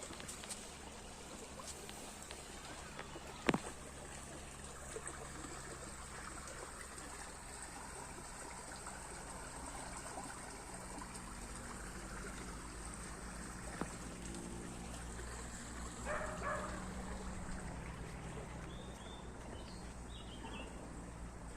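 Water of a small stream trickling steadily over a low, steady hum. There is a sharp click about three and a half seconds in, and a few short calls near the end.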